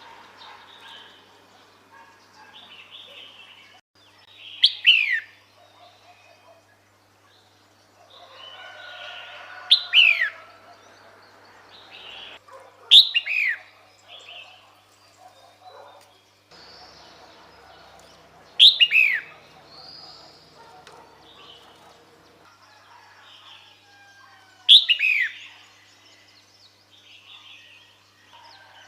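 Female red-whiskered bulbul calling: five loud, sharp notes a few seconds apart, each falling quickly in pitch, with softer chirping between them. It is the female's call that draws males to her.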